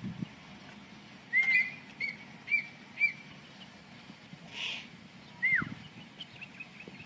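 A bird calling: four short arched chirps about half a second apart, then a single longer call that falls in pitch, and a run of faint, quick chirps near the end.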